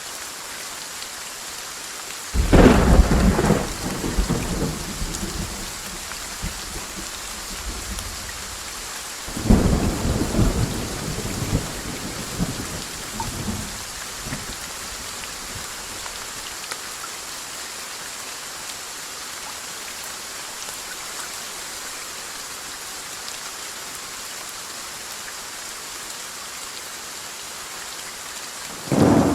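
Thunderstorm: steady rain hissing throughout, broken by three peals of thunder. The first and loudest breaks about two seconds in and rumbles away over a few seconds; a second rolls in around ten seconds; a third starts just before the end.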